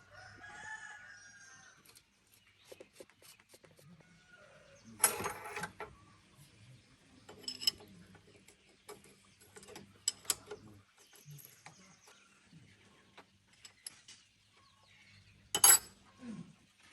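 Metal tools clanking and knocking on tractor parts during repair work: a few sharp strikes and clinks, the loudest about five seconds in and near the end. A chicken calls at the start, and a faint low hum runs underneath.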